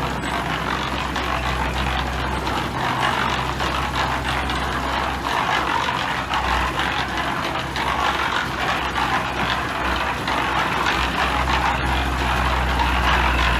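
Heavy diesel earthmoving machinery running under load: a steady low engine drone with continuous metallic rattling and clanking over it.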